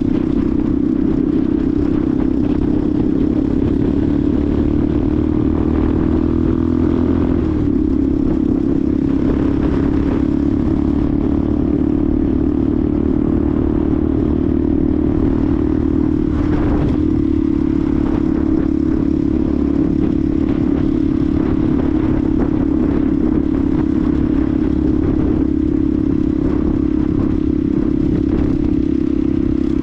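Benelli TNT 125's single-cylinder engine running steadily under way, heard from the rider's position over low wind rumble on the microphone. Its note wavers briefly twice, about a quarter of the way in and again just past halfway.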